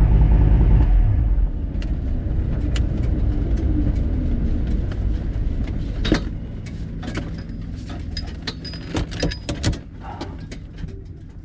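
Twin-turbo Dodge Viper V10 making a full-throttle drag-strip pass, its exhaust loud from the launch and slowly fading as the car runs away down the track. It is running on nine of its ten cylinders, one plug wire burnt. Sharp clicks and rattles come through in the second half.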